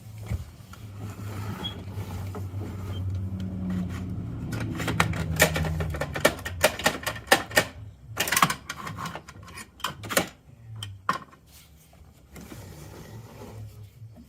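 Hard plastic parts of a toy garbage truck clicking and rattling rapidly as it is worked by hand, most densely in the middle. Before that comes a low hum that rises in pitch.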